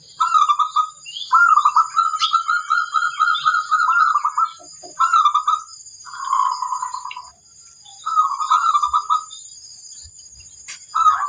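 Zebra dove (perkutut) cooing in a series of rolling, trilled phrases, about five in all, one of them long. Faint higher chirps and a steady high-pitched whine run under it.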